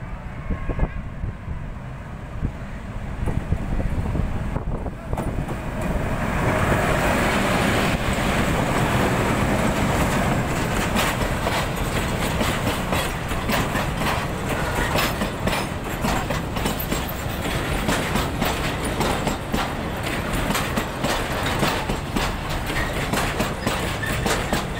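Diesel-hauled container freight train approaching and passing close by: the locomotive's running noise builds over the first six seconds, then the container flatcars roll past with a steady rapid clatter of wheels over the rail joints.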